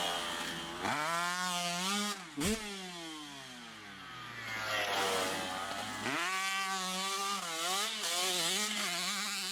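Dirt bike engine revving: the pitch climbs for about two seconds, then glides down to a low steady note, and a few seconds later it revs up again with the throttle worked up and down.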